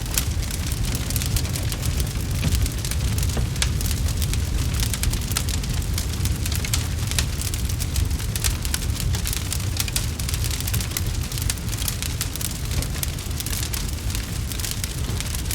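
Wood fire crackling, a dense scatter of small pops and snaps over a steady low rumble.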